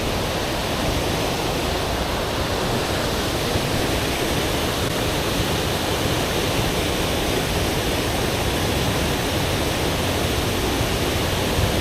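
River water rushing steadily as it pours down a flume-like cascade into a large rock pothole.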